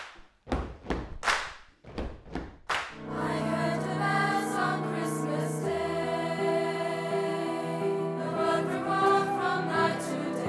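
A few short, hissing bursts in the first three seconds, then a school choir singing held chords with an instrumental ensemble accompanying.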